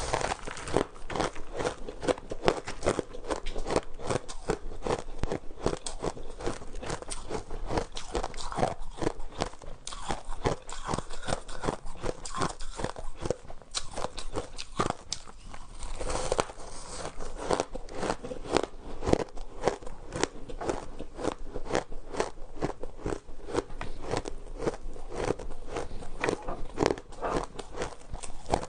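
Person biting and chewing shaved ice: a dense, steady run of crisp crunches, several a second.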